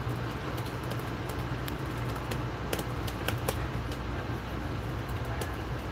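Steady low hum and rumble inside an Amtrak passenger coach, with a few faint light clicks scattered through the middle.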